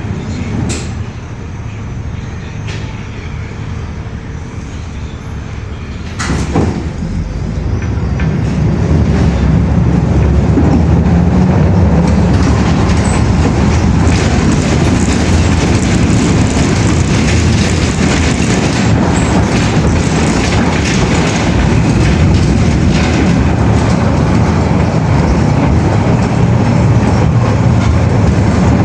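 Steady rumbling noise of a moving vehicle. It is fairly quiet at first, with one sharp knock about six seconds in, then grows louder over the next few seconds and stays at that level.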